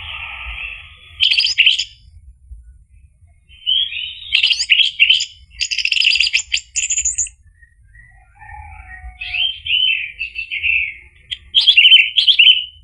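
Orange-headed thrush singing: loud, varied phrases of whistles and rapid chattering notes in several bursts, separated by short pauses.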